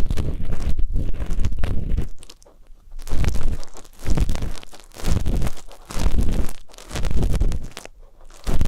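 Ear-cleaning ASMR: an ear pick scraping and rubbing against a microphone's ear, making close, crunchy strokes. It is steady at first, then after a short pause comes in separate strokes about once a second.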